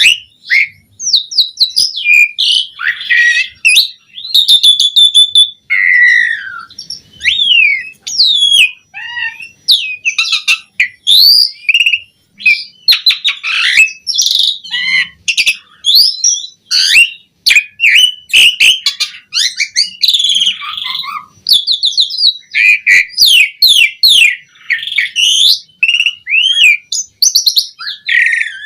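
Pied starling (jalak suren) singing vigorously: a rapid, varied run of clear whistles, chirps, rising and falling glides and quick rattling notes, with short breaks between phrases. The song is full of the added phrases that keepers call isian.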